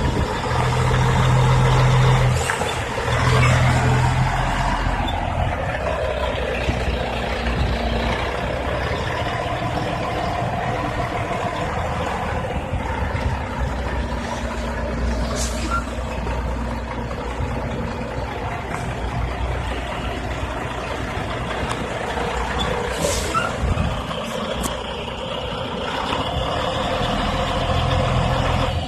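Truck engine running steadily, with two short hisses of air, one about halfway through and one near three-quarters through, typical of air brakes.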